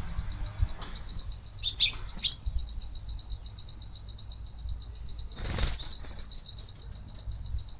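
Small birds chirping in two short bursts of quick high chirps, a few seconds apart, over a faint steady high pulsing background.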